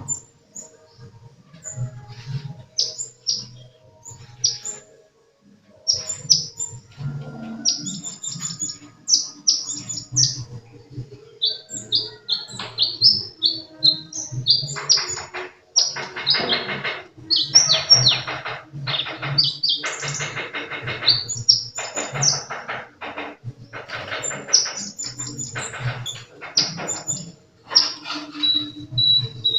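Sunbird (the 'kolibri' of Indonesian bird keepers) singing without pause: a rapid stream of high chirps and short falling notes, turning about halfway through into louder, buzzy rattling phrases.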